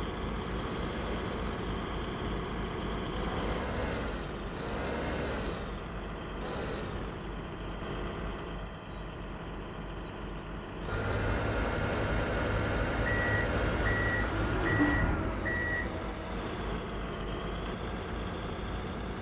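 Heavy dump truck diesel engine running, its pitch rising and falling a few times, then growing louder. Partway through, the reversing alarm sounds four evenly spaced beeps.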